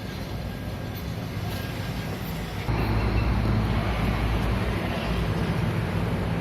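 An engine running steadily with a low hum, getting louder and fuller about three seconds in and holding there.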